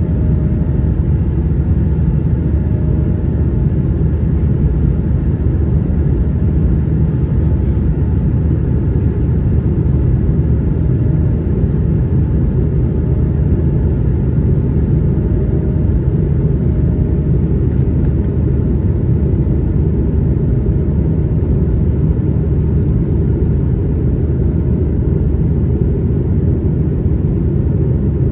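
Steady low cabin rumble of an Airbus A220-100 in flight: its Pratt & Whitney PW1500G geared turbofans and the airflow heard from inside the cabin, unchanging throughout.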